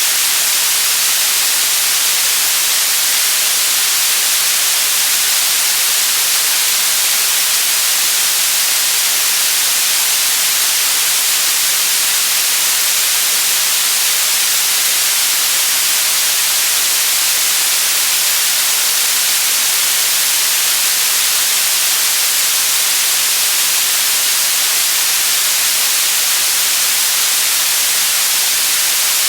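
White noise: a steady, even hiss, strongest in the high pitches.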